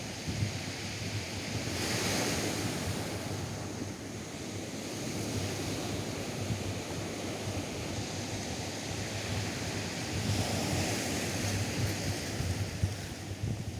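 Atlantic surf breaking on a sandy beach, one wave washing in about two seconds in and another swelling from about ten seconds in, with wind buffeting the microphone as a low rumble.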